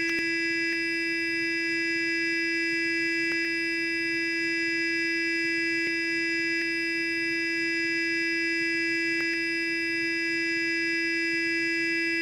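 Sonic electric toothbrush running continuously: a steady, even buzz at one low pitch, with faint brief clicks every few seconds.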